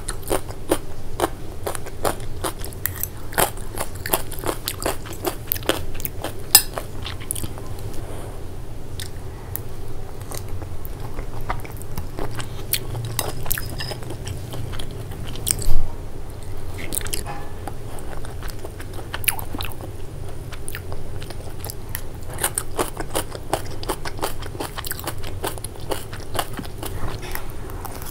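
Close-miked chewing of a crunchy shredded-vegetable salad, with many crisp crunches and wet mouth clicks coming in irregular clusters. One louder sudden sound stands out about halfway through.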